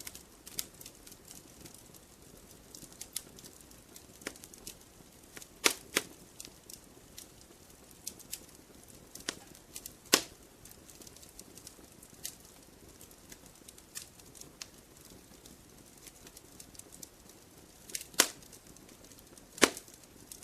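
Campfire crackling: burning wood giving off irregular sharp snaps and pops over a faint low hiss, with a few louder pops, two about six seconds in, one about ten seconds in and two near the end.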